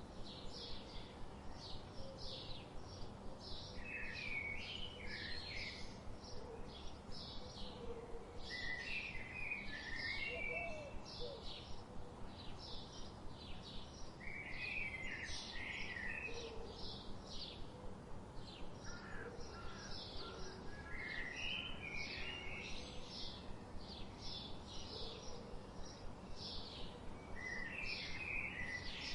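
Songbirds singing: a steady run of short high chirps, about two to three a second, with a fuller warbled phrase breaking in every few seconds, over a steady low background hiss.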